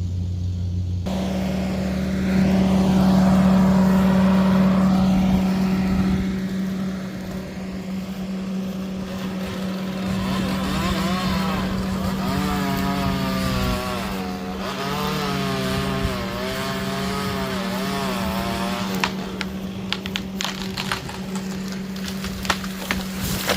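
Chainsaw running at high revs while felling a ponderosa pine, its pitch wavering as the cut loads and frees the chain. A run of sharp cracks and knocks comes in the last few seconds.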